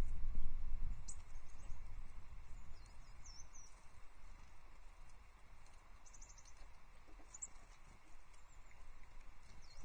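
Tits giving short, thin, high calls here and there, with a quick run of call notes about six seconds in, over a low rumble that fades after the first few seconds.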